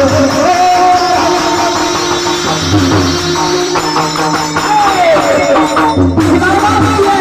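Devotional bhajan: singing with instrumental accompaniment and rhythmic percussion, the strokes a tambourine-like jingle.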